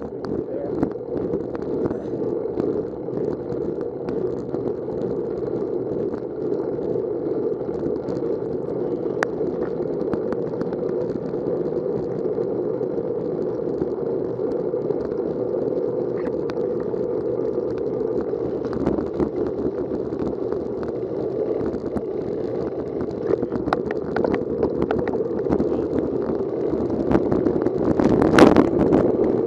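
Steady rushing noise of a bicycle ride in the rain, heard on the rider's camera: air and wet tyres on the road, with small ticks and rattles and one louder jolt near the end.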